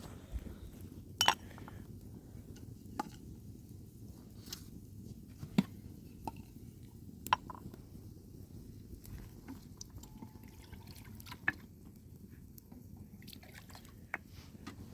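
Water dripping: single drops land at uneven intervals, every second or two, over a low steady background hum.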